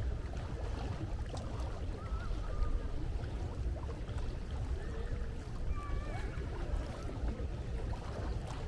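Sea ambience: a steady low rumble of waves and wind, with a few faint gull calls about two seconds in and again around six seconds.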